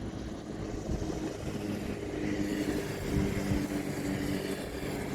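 An engine running steadily: a low drone with several held tones, a little louder from about two seconds in.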